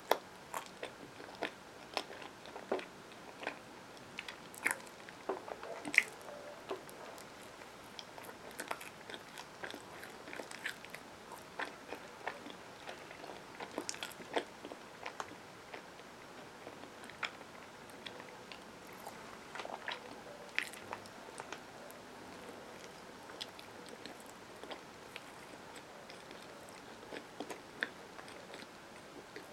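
Chewing a peanut butter and marshmallow sandwich on wheat bread, with irregular short mouth clicks and smacks throughout and one sharper click about six seconds in.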